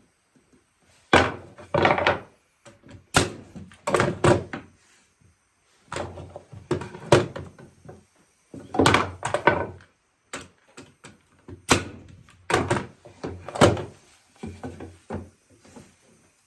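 Oak seat slats being nailed onto a small rocking-chair frame with trim nails: a series of sharp knocks on wood, irregularly spaced, each with a short ringing tail.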